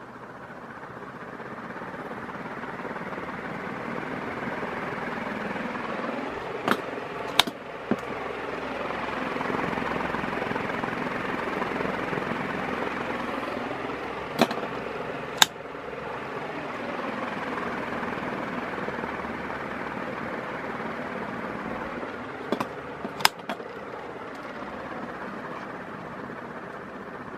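36-inch Commander / Gulf Coast industrial ceiling fan running, a steady whooshing hum of air and motor that builds over the first several seconds and then holds. Three quick clusters of sharp clicks come about eight seconds apart.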